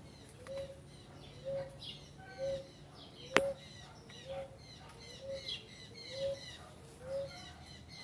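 Birds chirping and twittering, with a lower call repeated steadily about once a second; a single sharp click about three and a half seconds in.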